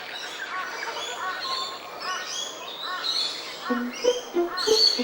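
Small birds chirping, a chorus of short, repeated calls. Plucked-string music comes in about three-quarters of the way through.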